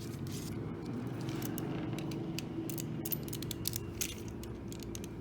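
Plastic LEGO pieces clicking and rattling as they are handled and pressed together, many small irregular clicks over a steady low hum.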